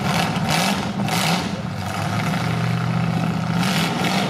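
Demolition derby cars' engines running loud through open upright exhaust pipes, revving up and down in pitch, with several louder surges.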